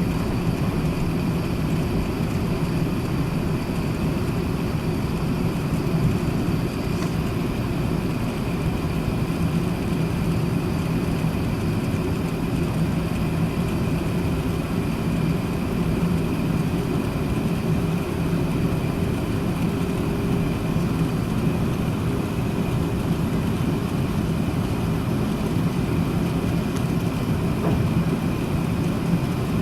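Steady cabin noise inside an Airbus A380-861 with its Engine Alliance GP7200 turbofans running: an even low rush with a faint steady high whine.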